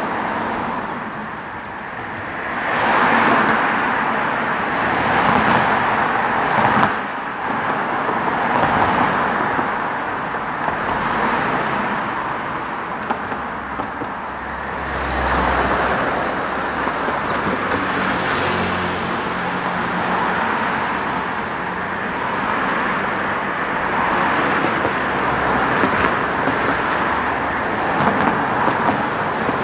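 Road traffic: cars passing one after another, each swelling and fading, with a heavier vehicle's low engine rumble near the middle.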